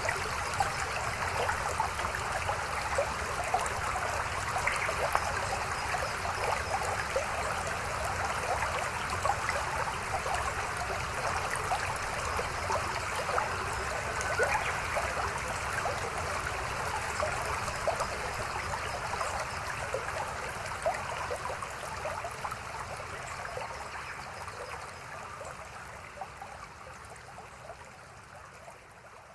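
A shallow mountain stream babbling over rocks: a steady splashing murmur with many small trickles and plops. It fades out over the last several seconds.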